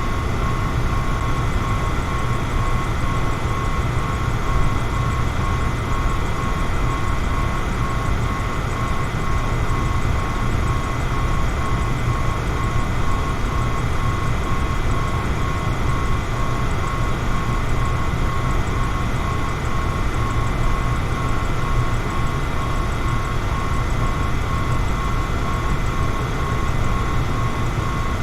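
Electric fan running steadily: an even rushing of air with a low hum and a faint, constant whine from the motor.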